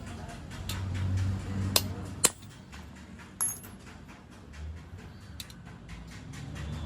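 A few sharp metal taps and clinks, two loud ones about two seconds in and another a second later, then fainter ticks, over a steady low rumble.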